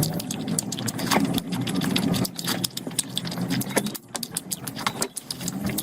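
Close-miked eating sounds: wet chewing and lip-smacking, with many short, sharp mouth clicks over a low hum.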